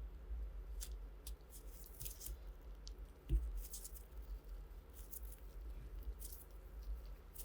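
Faint scattered clicks and light scrapes of small parts being handled, with one soft thump about a third of the way in.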